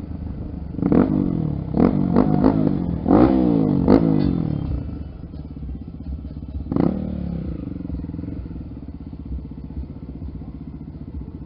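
Dirt-bike engine revved in a run of quick blips through the first five seconds, with one more rev about seven seconds in, then running steadily at low revs.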